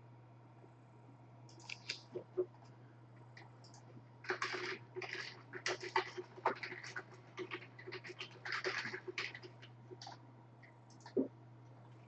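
Computer keyboard being typed on in quick runs, with scattered single clicks, over a steady low electrical hum.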